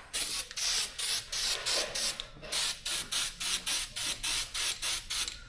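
Aerosol can of CRC Pro Seal sprayed in quick short spurts, about three hissing bursts a second, with one slightly longer burst a little past the middle.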